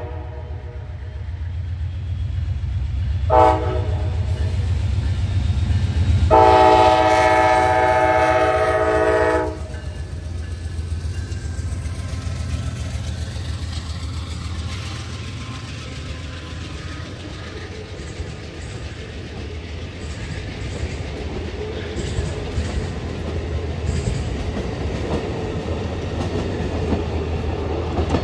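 Amtrak GE P42DC diesel locomotive passing with its engine running and its multi-chime horn sounding a short blast about three seconds in, then a long blast of about three seconds: the closing short-and-long of a grade-crossing signal. The passenger cars then roll past with a steady rumble and wheel clicks over the rail joints.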